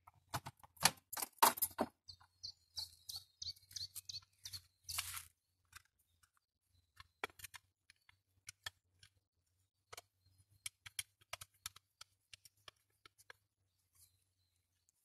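Irregular crackling and snapping of twigs and forest litter underfoot, loudest in the first two seconds and sparser later, with a small bird chirping a few times about two to four seconds in.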